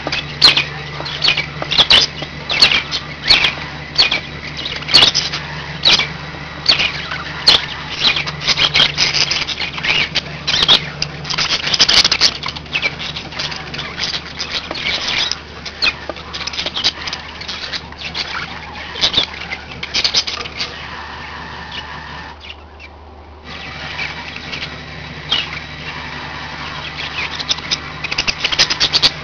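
Budgies chattering: a dense, busy run of short sharp chirps and clicks, with a brief break about three quarters of the way through.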